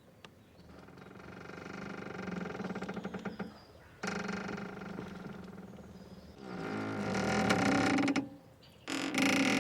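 A boat's mooring rope squeaking and creaking under strain as the boat moves: four drawn-out creaks, the last two the loudest.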